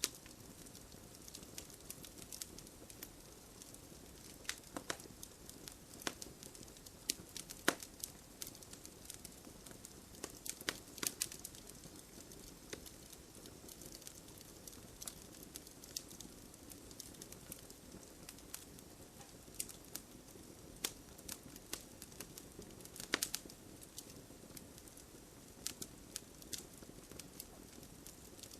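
Wood fire burning, a soft steady hiss with irregular sharp crackles and pops.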